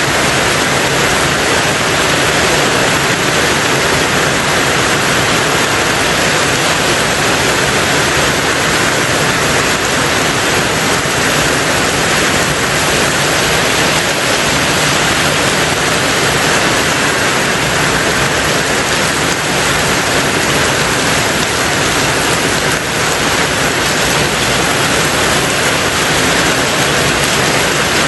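Heavy rain falling on a tin roof in a steady, dense patter.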